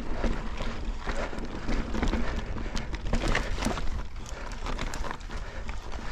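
Mountain bike rolling over slickrock: tyres rumbling on the rock, with many irregular knocks and rattles from the bike, and wind buffeting the microphone.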